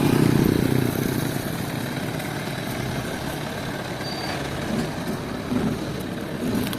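Sawmill machinery running steadily with an engine-like drone, a little louder in the first second.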